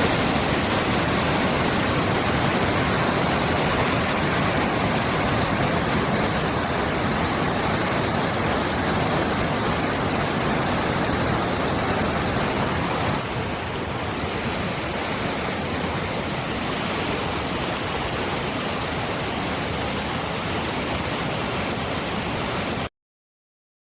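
Fast-moving water of a creek swollen by heavy rain, rushing steadily. It gets a little quieter about thirteen seconds in and cuts off abruptly near the end.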